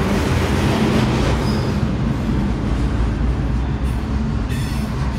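Double-stack intermodal freight train's container cars rolling past, a steady, loud rumble of steel wheels on rail.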